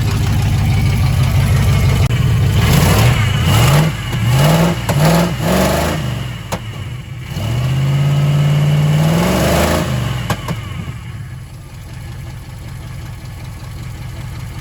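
Chevy small-block 350 V8 of a 1980 K30 pickup running on its first start after sitting, revved by hand at the throttle: a steady idle, a run of quick blips, one longer held rev, then it settles back to a lower idle near the end.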